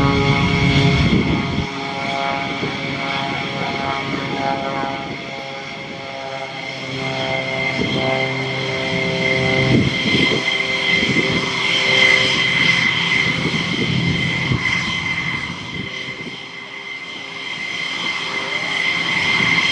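Aircraft engines running at an airfield: a steady high whine over a low droning hum whose pitch shifts, fading a little twice and coming back up.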